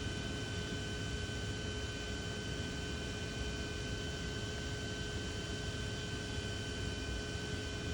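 Steady electrical or machine hum with a few constant high tones over an even hiss, unchanging throughout.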